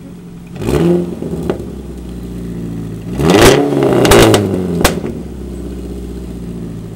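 Dodge Neon SXT's four-cylinder engine idling through its mufflers and revved twice: a short blip about a second in, then a longer rev that rises and falls a little after three seconds. A single sharp crack comes near five seconds, and then it settles back to idle.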